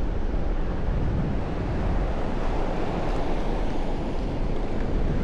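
Wind noise on the microphone over steady ocean surf.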